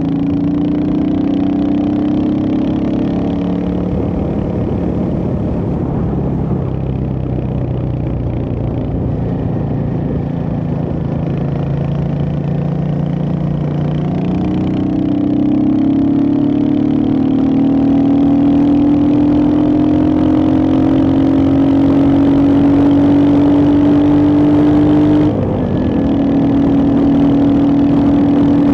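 Royal Enfield Hunter 350's single-cylinder engine running under way, its pitch changing with the throttle and gears: revs jump up about halfway, climb slowly, then dip briefly at a gear change a few seconds before the end.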